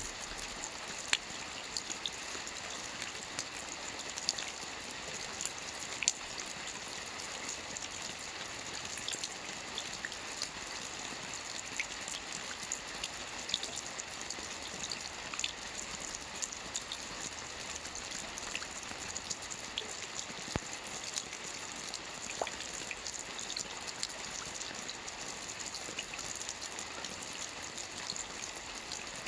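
Steady soft rain on a roof: a constant patter with many individual drops ticking through it, a few of them louder.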